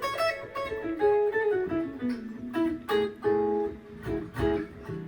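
Gibson ES-335 semi-hollow electric guitar played clean: a quick phrase of picked single notes stepping down in pitch, then short repeated two-note shapes.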